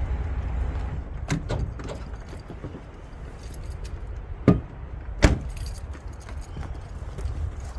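Light clicking and jingling with two sharp knocks about a second apart near the middle, over a steady low rumble.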